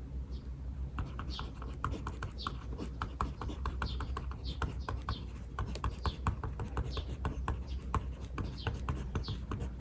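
Small birds chirping: short, high, falling chirps repeated about once or twice a second. Under them runs a quick patter of light desk clicks and taps, like typing.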